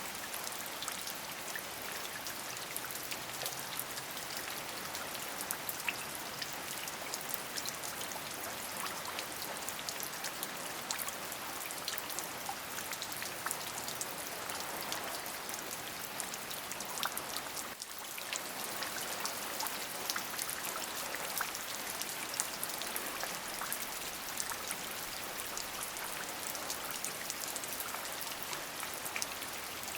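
Steady rain, a dense even hiss full of small individual drop ticks, with one brief dip in level a little past the middle.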